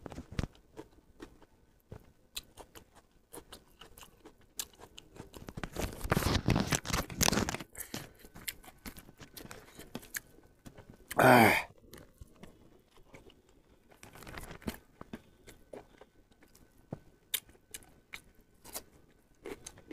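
Close-miked eating of a rice-and-curry meal by hand: chewing, lip smacks and crunching, with a dense run of them a little before the middle. One short, loud mouth or throat sound comes a little past halfway.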